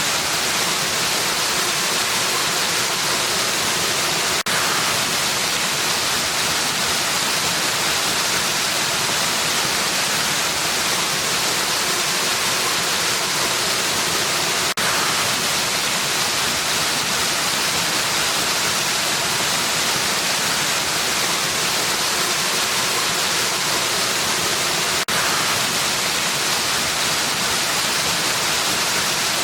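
Steady rushing of a waterfall: an even, unbroken hiss of falling water, with a brief dip in level about every ten seconds.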